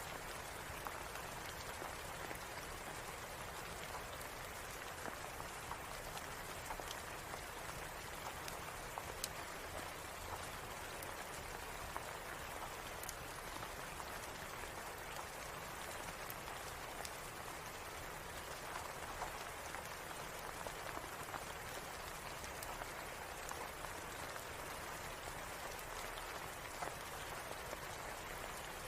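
Steady rain, an even patter, with scattered sharp ticks scattered through it.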